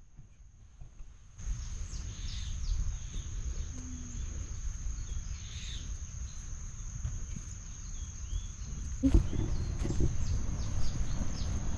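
Birds chirping in short, scattered calls over a steady high-pitched whine and a low rumble, growing louder about nine seconds in.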